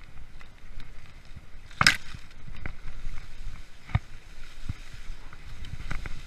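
Mountain bike rolling over a forest trail: a steady low rumble from the tyres with scattered knocks and rattles from the bike, the loudest a sharp crack a little under two seconds in.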